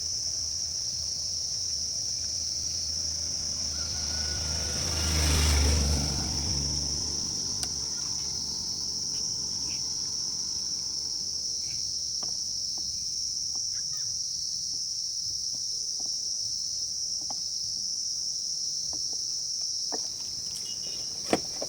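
Insects giving a steady high-pitched drone. A motor vehicle passes about five seconds in, swelling and fading, and light clicks and taps follow in the second half.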